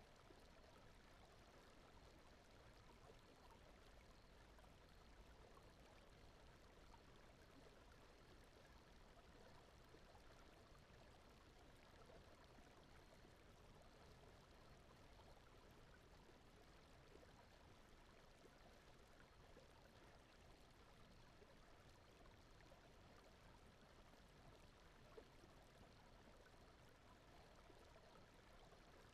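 Faint, steady rushing noise like a gently flowing stream: the sleep-aid background bed of soft water-like noise.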